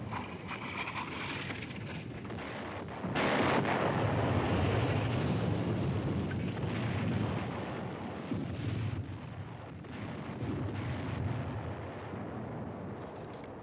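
Distant artillery rumbling without a break. About three seconds in it jumps to a louder, heavier rumble that lasts several seconds, then eases back.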